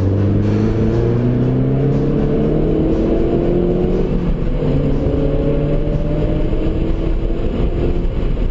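2009 Mazdaspeed3's turbocharged 2.3-litre four-cylinder, heard inside the cabin, accelerating hard with the revs climbing. The revs drop at an upshift about four and a half seconds in, then climb again.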